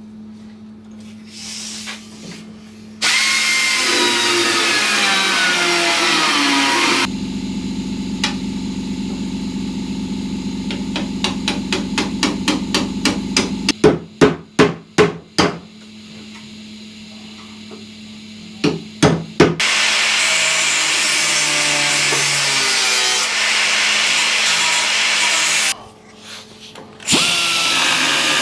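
A power tool working on the steel of a motorcycle fuel tank in long runs, its whine dropping as it bites, with a stretch of quickening rhythmic buzzing between. In the middle come a run of about six loud knocks, then three more, like blows struck on the metal.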